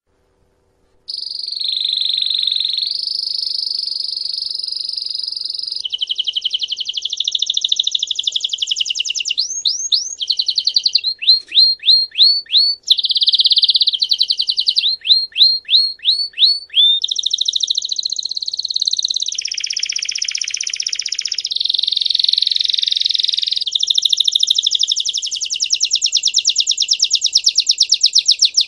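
Canary song that starts abruptly about a second in: a long unbroken run of high trills and buzzing rolls, broken up by quick series of downward-sweeping notes.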